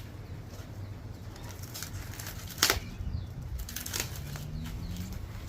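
Corn cob being snapped in half by hand: a sharp crack about two and a half seconds in, with a smaller crack about a second later.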